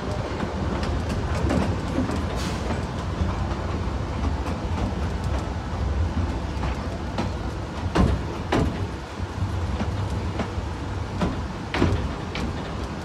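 North Bay Railway miniature train running along the track: a steady low rumble with a few sharp clicks, the loudest about eight seconds in and again near the end.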